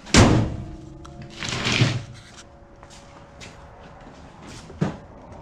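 The steel door of a 1951 Chevrolet Fleetline shut with a loud bang that leaves a brief metallic ring. A rustling swish follows, and a single sharp click comes near the end.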